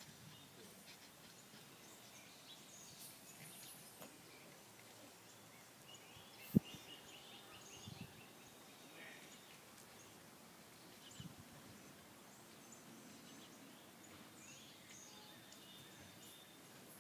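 Faint outdoor background noise with a few faint high chirps, and a single short knock about six and a half seconds in.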